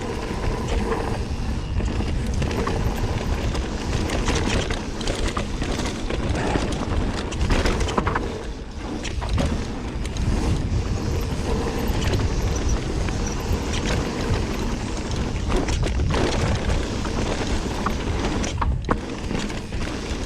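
Mountain bike riding down a dirt and rock trail: constant wind rush on the bike-mounted microphone, with tyre noise and frequent knocks and rattles from the bike over bumps.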